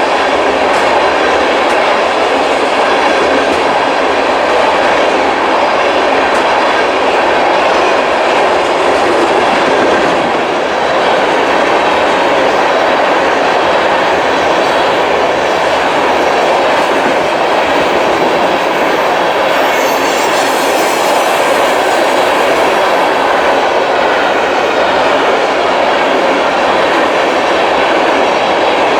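Freight train cars rolling past steadily: a continuous rumble of steel wheels on rail with clickety-clack over the joints. A short high hiss comes in about twenty seconds in.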